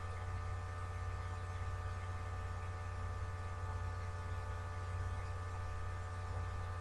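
Steady electrical mains hum with a higher, even buzz of several constant tones above it.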